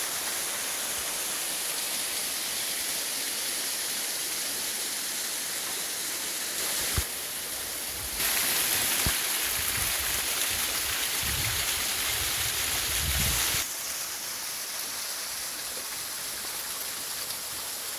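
Steady rushing of water falling over a waterfall. It grows louder from about eight seconds in for some five seconds, with a low rumble under it, and there is one sharp knock near seven seconds.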